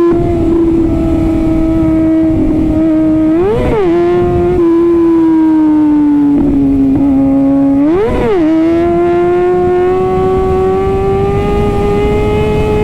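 Kawasaki ZX-6R's inline-four engine, fitted with an Arrow titanium exhaust, running at high revs on the move: a steady high-pitched engine note that sags slowly and then climbs again, with two quick throttle blips that spike the pitch about three and a half and eight seconds in. Wind rush sits underneath.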